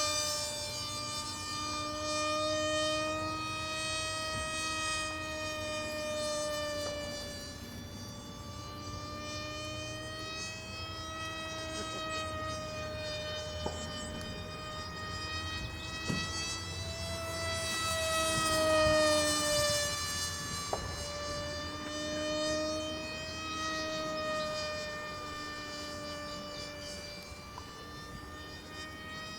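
Small electric outrunner motor and propeller of a foam RC plane whining in flight on a 3-cell battery. The pitch wavers up and down as the plane circles and the throttle changes, and it grows louder as the plane passes close about two-thirds of the way through.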